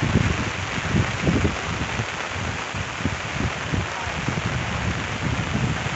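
Heavy rain falling as a steady hiss, with an uneven low rumble underneath.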